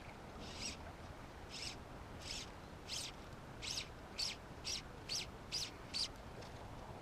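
A bird calling: a series of about ten short, high chirps that come faster toward the end.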